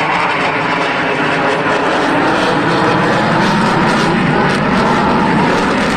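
Propeller airplane's engine running steadily, its pitch drifting slowly up and down.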